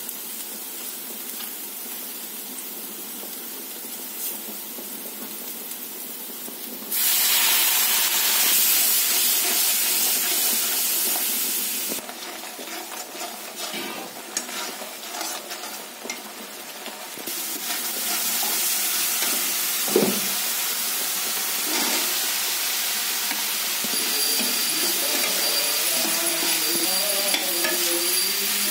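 Spiced onion masala frying and sizzling in a steel kadai, stirred with a slotted steel spoon that scrapes and knocks against the pan. The sizzle jumps louder about seven seconds in, drops back around twelve seconds, and rises again from about eighteen seconds.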